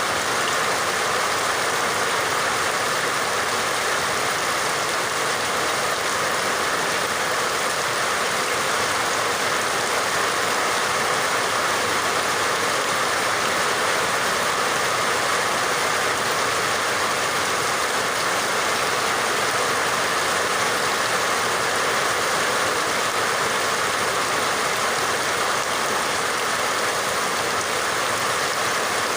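Steady heavy rainfall, an even hiss of rain with no separate drops or thunder standing out.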